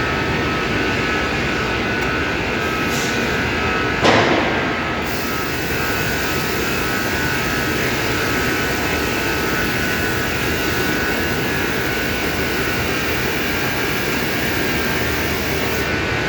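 Robot vacuum cleaner running: a steady machine whir with a faint high whine in it, and a brief louder noise about four seconds in.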